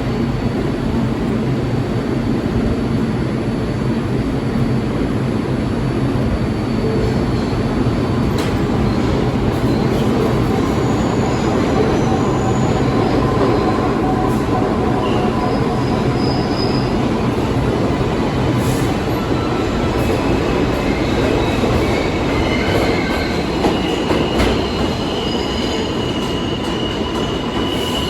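New York City subway train running on the track: a steady loud rumble of wheels and car, with thin wheel squeals coming and going in the second half.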